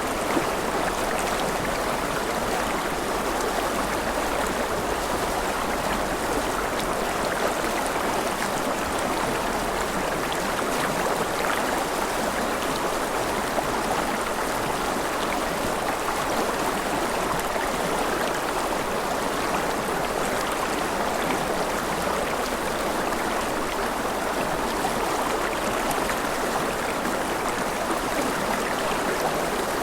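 Forest river flowing steadily, a continuous rush of water over rocks.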